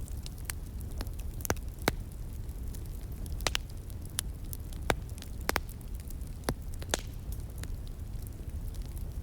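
Wood fire crackling, with irregular sharp pops and snaps, a dozen or more, over a steady low rushing background.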